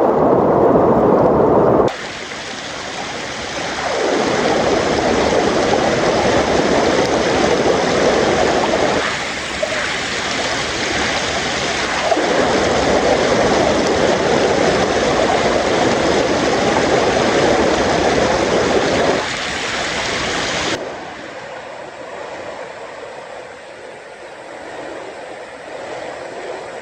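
Loud, steady rushing of flowing water in a mountain stream, changing abruptly about two seconds in and dropping to a quieter rush near the end.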